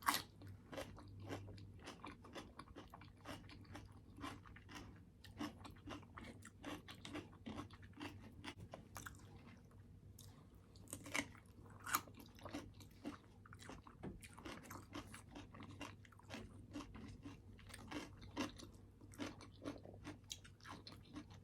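A person chewing and crunching food close to the microphone: a quiet, irregular run of short crunches and mouth clicks, with a couple of louder bites about halfway through.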